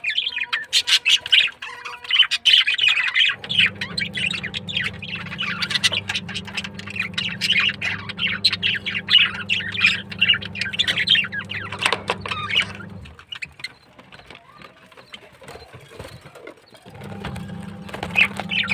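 Many small birds chattering together, with quick chirps and squawks overlapping; the calling thins out about two-thirds of the way through.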